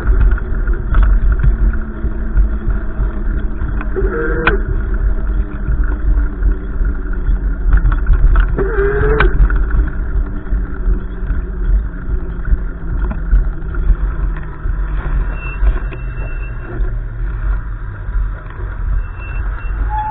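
Gusty wind buffeting the microphone: a loud, uneven low rumble that swells and eases.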